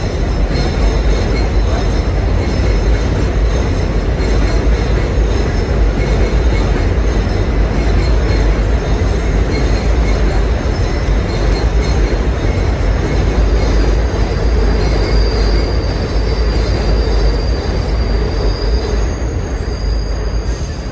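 A train running past with a steady loud rumble and a thin, high squeal of steel wheels on the rails.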